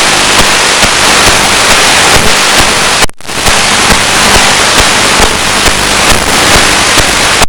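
Loud steady hiss peppered with crackles on the FPV flight recording's audio, cutting out for a split second about three seconds in.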